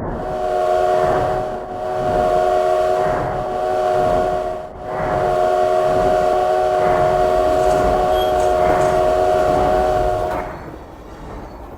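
A train sounds a multi-note chord whistle, one long blast held for about ten seconds that stops shortly before the end. A rhythmic pulsing from the running train sounds underneath it.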